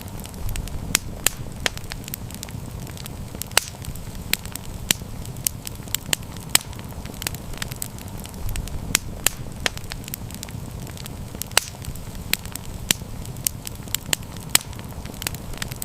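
Wood campfire burning and crackling: a steady low rumble of flame with frequent irregular sharp pops and snaps, a few louder than the rest.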